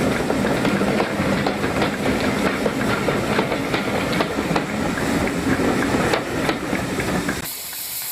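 Steam train running by, its wheels clattering over the rail joints with steam noise. The sound cuts off suddenly near the end, leaving a softer steam hiss.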